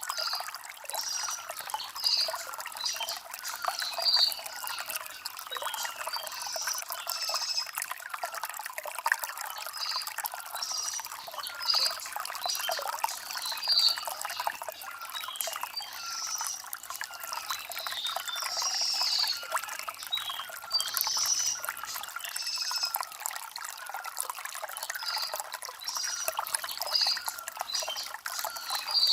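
Stream water trickling and splashing over river stones, with small birds chirping repeatedly throughout.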